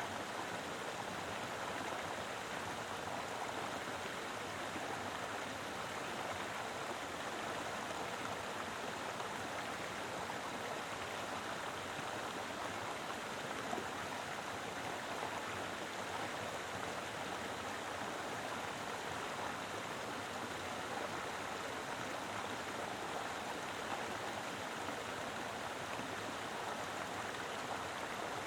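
Mountain river flowing steadily, a dense, even rush of water over rocks.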